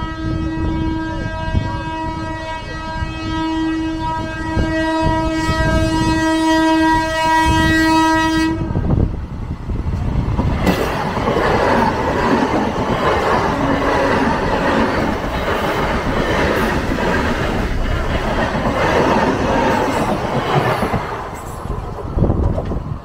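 Electric local train (EMU) horn held in one long blast for about eight and a half seconds, cutting off suddenly. Then the train runs past close by in a steady loud rush of wheels and coaches, which falls away near the end.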